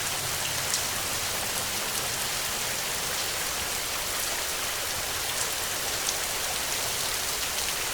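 Heavy rain falling steadily: an even hiss flecked with scattered sharper drop ticks.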